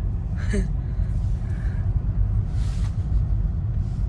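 Car being driven, heard from inside the cabin: a steady low rumble of engine and road noise. A brief short sound comes about half a second in and a short hiss near three seconds.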